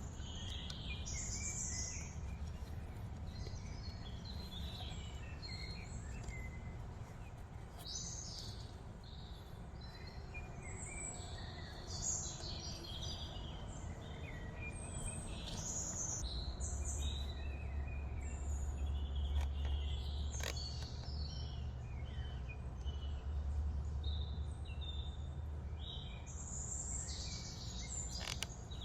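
Several wild birds chirping and calling over a steady low rumble that swells in the second half, with two sharp clicks, one about two-thirds of the way in and one near the end.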